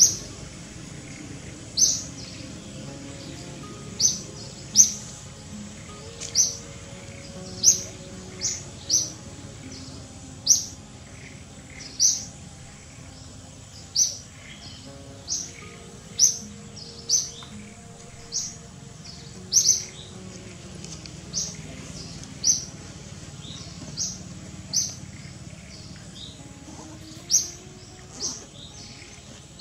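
A bird chirping again and again: short, sharp, high chirps at irregular intervals, about one a second, over soft background music.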